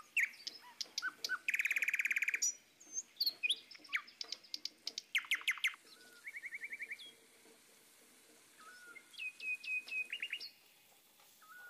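Small birds chirping and trilling: quick rattling trills, short whistled chirps and rising notes, busiest through the first two thirds and thinning out near the end.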